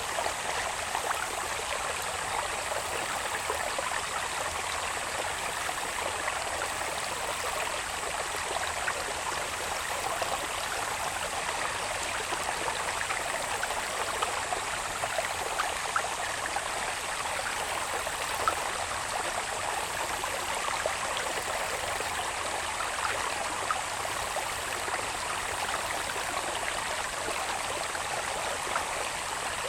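Water babbling and trickling steadily along a small irrigation channel, with a continuous high, even insect drone over it.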